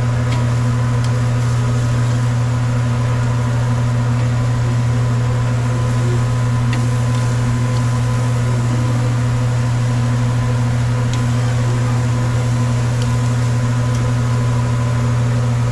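A loud, steady, low mechanical hum with a few steady overtones, like a running motor or fan, with a few faint clicks over it.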